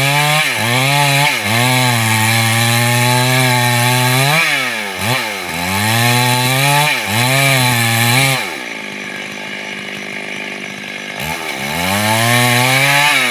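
Chainsaw engine running at high revs, its pitch dropping and recovering several times. About two-thirds of the way through it falls back to a lower, quieter idle for about three seconds, then revs up again near the end.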